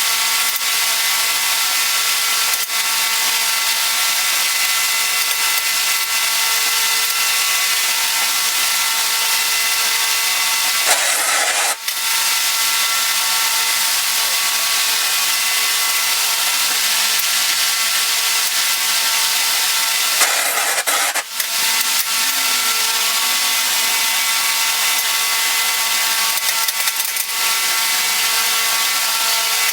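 A power tool running steadily with a loud, high hiss, cutting out briefly twice, about twelve and twenty-one seconds in.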